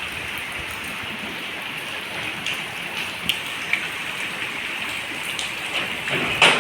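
Heavy rain falling steadily as an even hiss, with a few sharper drop ticks and a brief louder rush of noise just before the end.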